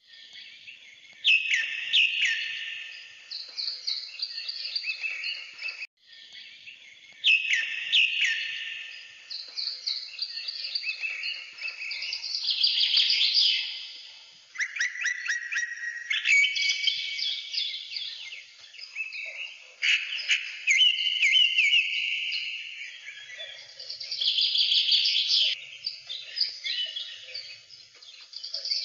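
Birds chirping and calling in loud, high-pitched bursts every few seconds, with a brief break about six seconds in.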